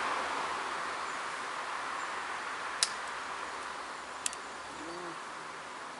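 Two sharp clicks about a second and a half apart, near the middle: small flakes snapping off a tiger chert flake as it is pressure-flaked over a leather pad. Under them, a steady rushing hiss slowly fades.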